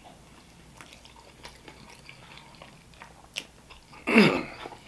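Close-miked chewing of a sauce-coated chicken wing: soft wet mouth clicks and small bites. Near the end comes a short vocal sound from the eater that falls in pitch.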